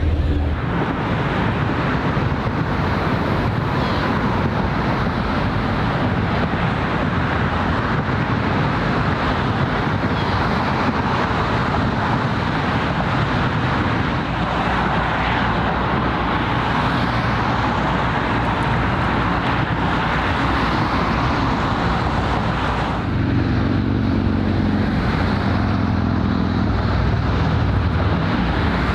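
Steady road-traffic noise, a continuous rumble and hiss. A low droning hum with several steady tones joins it for a few seconds near the end.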